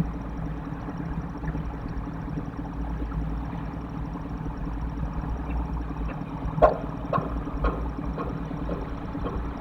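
Steady low rumble, broken about two-thirds of the way in by four sharp noises about half a second apart from something on the nest box roof, the first the loudest.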